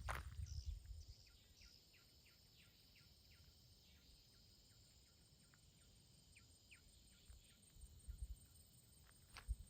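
Footsteps at the start and again near the end, with a long near-silent pause between them. The pause holds faint, short, falling high chirps repeated irregularly, a couple each second.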